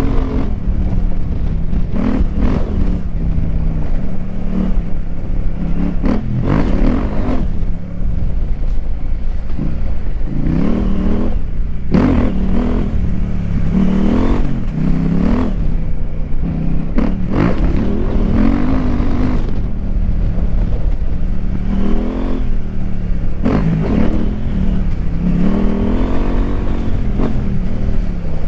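KTM 890 Adventure R's parallel-twin engine through an aftermarket Wings exhaust, revving up and backing off again and again as the bike is ridden, with its pitch rising and falling every second or two.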